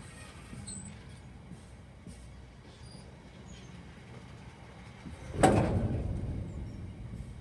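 Freight train of hopper wagons rolling past with a steady low rumble. About five and a half seconds in there is a sudden loud bang that dies away over a second or so.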